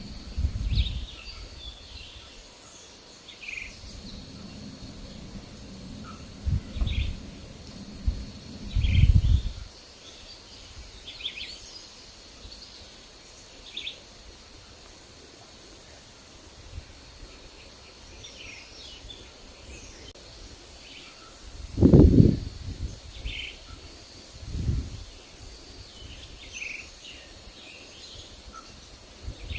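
Forest ambience: small birds chirp and tweet in short, scattered calls over a faint steady high hiss of insects. Low wind gusts buffet the microphone now and then, strongest about two-thirds of the way through.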